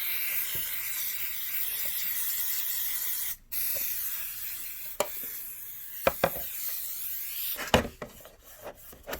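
A can of compressed air sprays in two long bursts of steady hiss, blowing dust out of a PS4 console's base. The first burst lasts about three seconds. After a brief break the second runs about four seconds more weakly. A few sharp clicks and handling knocks come near the end.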